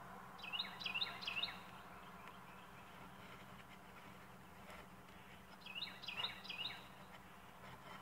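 A songbird singing twice, about five seconds apart. Each song is a quick run of four repeated, down-slurred high notes lasting about a second, over a faint steady hum.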